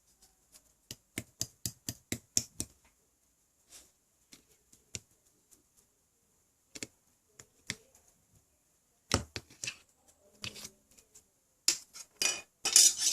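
Slime being handled, making sharp wet clicks: a quick run of about eight clicks a second in, scattered single clicks after, and a louder burst of crackling near the end.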